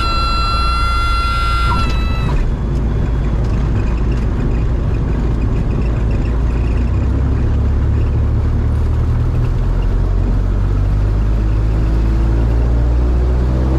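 A high, steady warning tone (the Cessna's stall warning horn) sounds for about two seconds and cuts off. Under it and after it, the Cessna 172M's four-cylinder Lycoming engine and propeller drone steadily. Near the end the drone rises in pitch and grows louder as power comes up for the takeoff of the touch and go.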